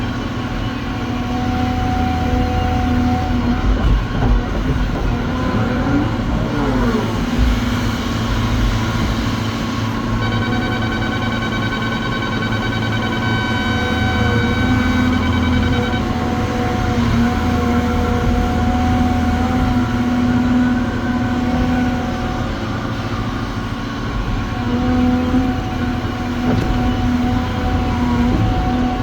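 Cat 725C articulated haul truck driving with its diesel engine running steadily. About ten seconds in, a steady high tone with overtones sounds for about six seconds, then stops.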